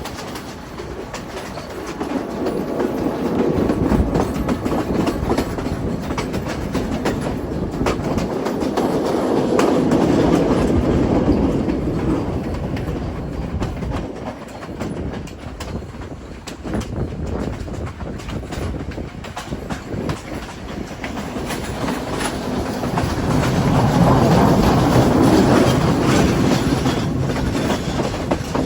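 Train running on the line, a steady rumble with its wheels clacking over the rail joints, swelling louder and fading several times.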